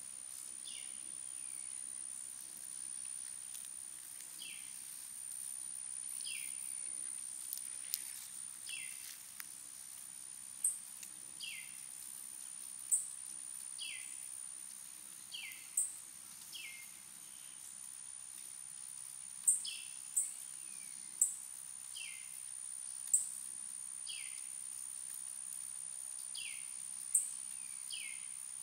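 Outdoor nature ambience: a bird repeats a short, falling call every second or two, with a few sharp high chips standing out, over a steady high-pitched insect drone.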